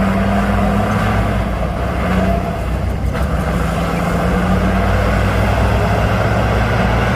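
Heavy diesel engine of a bulldozer or dump truck running steadily, with a slight dip in level about three seconds in.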